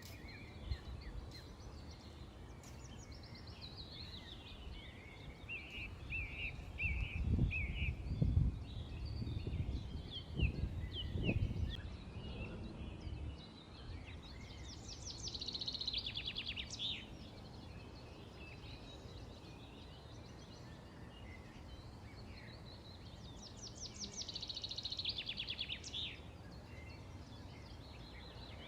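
Small birds chirping and twittering outdoors, with two fast, dense trills, one about halfway through and one near the end. A run of low rumbling bursts in the first half is the loudest thing heard.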